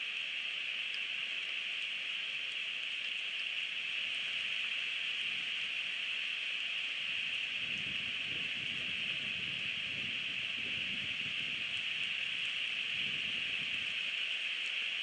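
Steady rain falling around an outdoor eagle-nest camera, heard as an even hiss. From about halfway through, low rumbles of wind on the microphone come and go.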